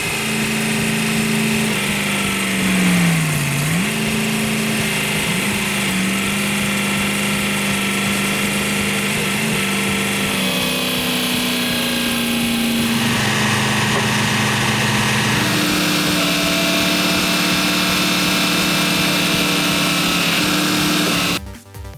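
Excavator engine running steadily under load. Its pitch sags and recovers about three seconds in, then steps up and down a few times later; the sound cuts off just before the end.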